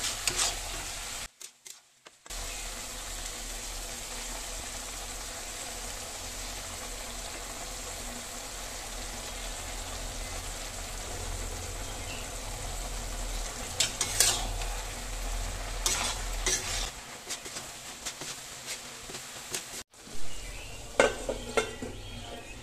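River snails and onions frying in oil in a kadai, with a steady sizzle. A spatula stirs and scrapes against the pan in a few short clattering spells, and near the end a steel lid clatters onto the pan.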